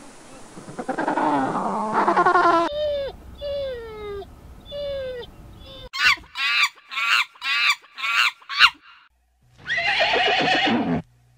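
A run of animal calls: a loud, rising bray like an African penguin's, then a few short falling calls, then about seven sharp high calls in quick succession. A horse whinnies near the end.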